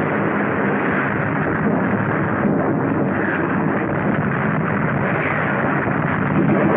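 Continuous din of a desert tank battle on a 1940s film soundtrack: a steady, dense rumble of guns and armoured vehicles with no single shot standing out, sounding dull and muffled.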